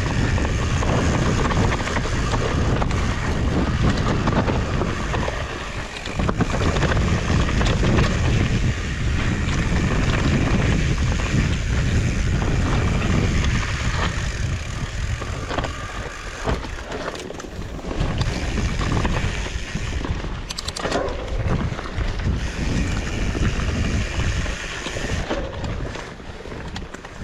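Wind buffeting the microphone of a camera on a mountain bike being ridden along a trail, with tyre and bike rattle underneath: a loud, steady rush that eases for moments now and then.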